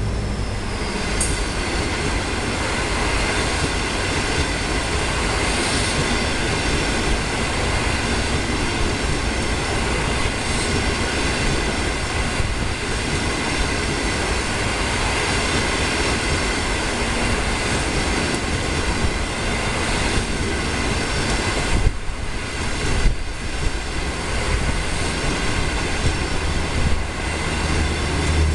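Steel wheels of CNR-built passenger coaches rolling past at speed on the rail: a steady, dense rumble and rush, with a few sharp clicks over rail joints about three-quarters of the way through.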